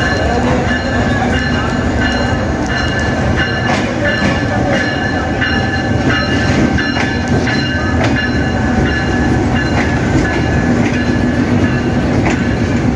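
Passenger train running past close by in heavy rain: a steady loud rumble with wheels clicking unevenly over the rail joints, over the hiss of rain.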